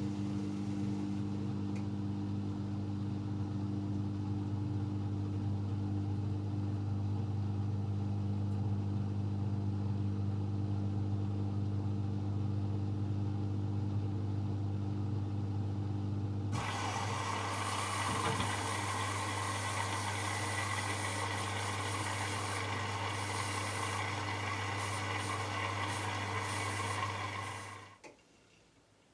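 AEG Electrolux Lavamat L74810 washing machine running with a steady low hum. About halfway through, a loud rushing hiss joins the hum, and both stop together about a second before the end.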